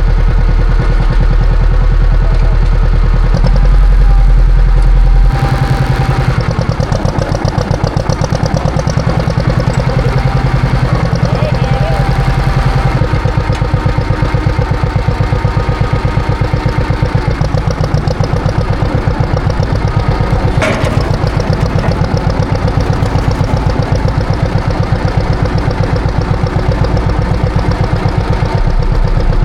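Two-cylinder engine of a John Deere 530 tractor running steadily under load while plowing snow, with an even, rapid putting beat. Its low rumble eases off about five seconds in, and there is a single sharp click about twenty seconds in.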